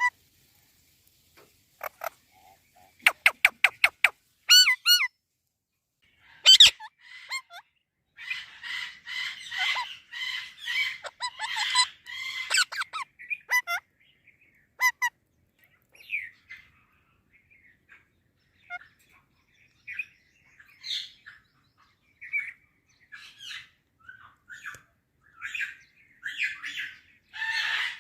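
Pet Indian parakeet squawking and chattering: a quick string of about seven sharp calls about three seconds in, a loud call a little later, a stretch of dense chattering, then scattered short calls and chirps.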